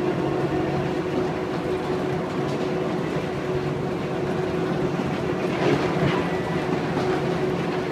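Las Vegas Monorail train running between stations, heard from inside the car: a steady hum over even rolling noise.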